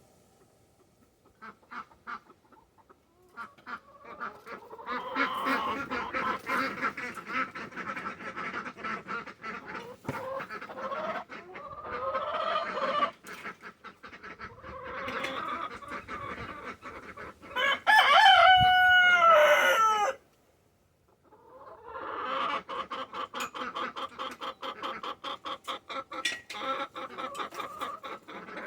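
A flock of chickens clucking in long, busy stretches, with a rooster crowing loudly once a little past halfway, its call falling in pitch at the end.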